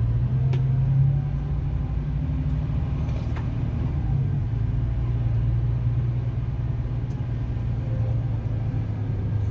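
Bus engine running with a steady low hum under an even road rumble.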